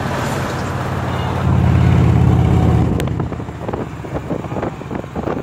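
Victory Cross Country motorcycle's V-twin running through new aftermarket exhaust pipes while cruising, over wind and road noise. The exhaust note swells about a second and a half in and holds for over a second, then drops back and turns choppier.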